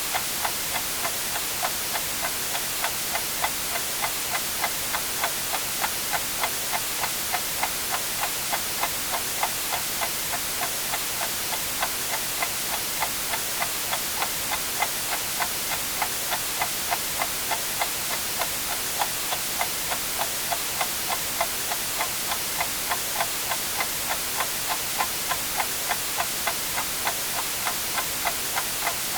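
Clock ticking steadily about twice a second over a constant hiss of white noise.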